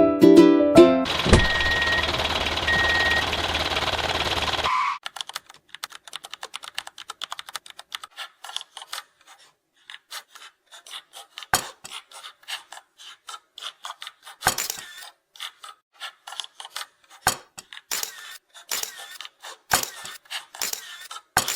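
A steady hiss with a sharp click and two short high beeps, cutting off about five seconds in, followed by scattered small clicks and taps.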